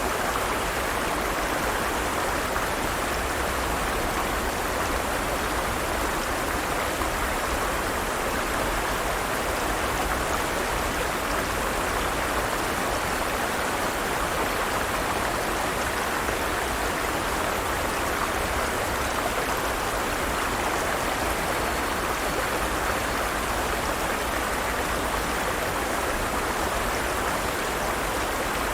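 Forest stream: water running and splashing over rocks in a steady, even rush.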